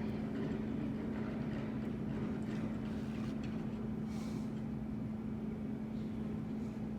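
Steady drone of a jet airliner idling near the terminal, heard through the glass: a constant low hum over an even rumble.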